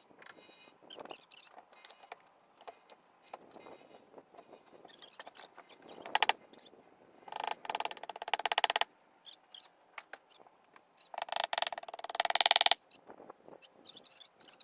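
Fast, sped-up sounds of repair work on a wall: scattered clicks and taps, with two louder rapid rattling bursts of about a second and a half each, one about halfway through and one past three-quarters of the way.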